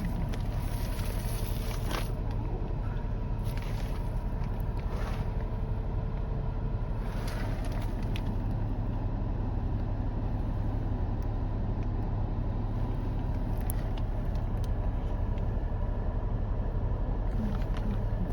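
Toyota Aqua hybrid's 1.5-litre three-cylinder petrol engine running at a steady low idle, warming up in freezing weather, with a few light clicks in the first several seconds.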